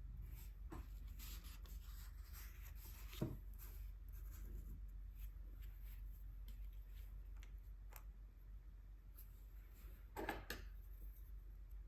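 Faint strokes rubbing on paper as gouache is swatched, with scattered small clicks. There is a soft knock about three seconds in and a brief louder clatter near the end.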